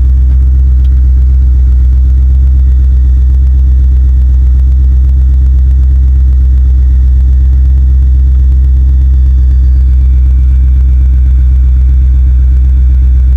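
Truck engine running on wood gas from a gasifier, a steady low hum with no revving.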